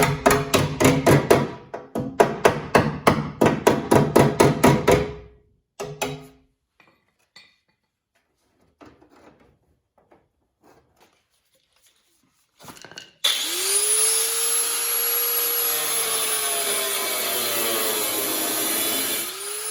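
A fast run of even, ringing strokes, about five a second, stops after about five seconds. After a quiet stretch with a few light clicks, a power cutting tool starts up loudly near the end and cuts a slit into a sheet-metal panel piece, its whine rising and falling in pitch as it cuts.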